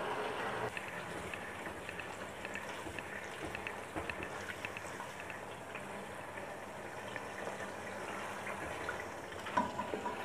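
Spiced onion-tomato masala sizzling and bubbling in oil in a pot, a steady frying hiss dotted with small crackling pops. A spoon stirs through it, and there is a brief knock near the end.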